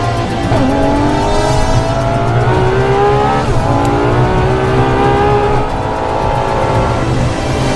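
Ferrari LaFerrari Aperta's V12 accelerating hard. Its pitch climbs steadily and drops back sharply at each of two upshifts.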